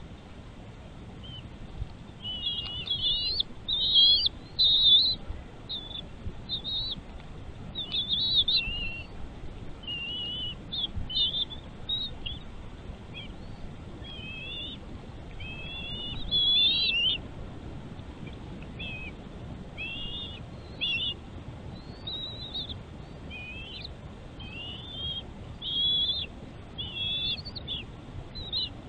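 A bird chirping in short, high, twittering phrases that rise and fall quickly, repeated every second or two throughout.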